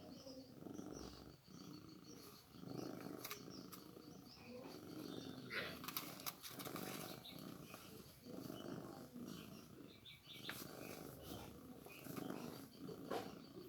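A cat purring in a low rumble that comes in pulses of about a second, rising and falling with its breathing. A few short clicks sound over it.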